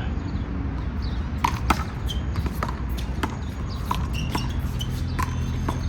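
A small rubber handball being slapped and bouncing off the wall and pavement in a rally of one-wall handball. It makes a string of irregular sharp smacks, the loudest about a second and a half in, over a steady low rumble.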